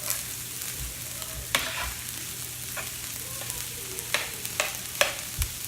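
Fried rice with diced onions, peppers and ham sizzling on a hot cooking grill, a steady hiss, with a spatula knocking and scraping against the cooking surface several times as it is stirred.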